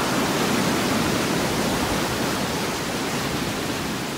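Steady rushing noise of sea surf, easing off slightly toward the end.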